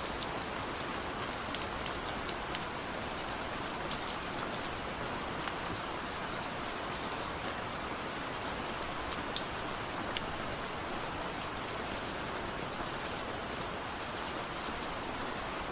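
Light rain falling steadily: an even hiss of rain with scattered sharp ticks of individual drops.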